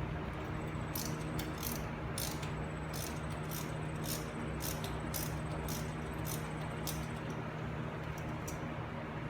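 Ratchet wrench clicking in short repeated strokes, about two or three clicks a second, as bolts are run in on a wheel hub assembly. A steady low hum sits underneath.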